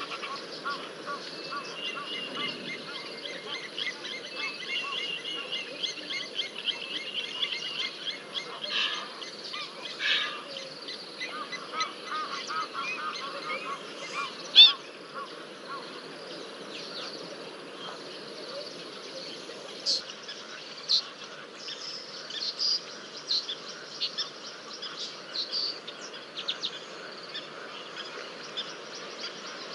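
Birds calling at a waterhole: a steady chatter of many short, repeated calls, with one loud, sharp call about halfway through and higher, sharper chirps later on.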